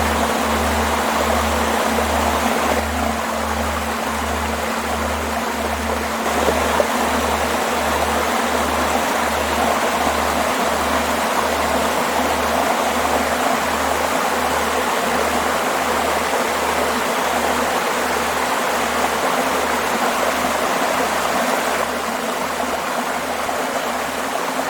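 Waterfall, a steady heavy rush of falling water. Under it runs a low pulsing throb, about one pulse every three-quarters of a second.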